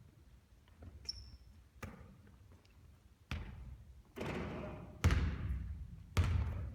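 Basketball bouncing on the court: a series of echoing thumps, fainter at first, with the two loudest near the end about a second apart.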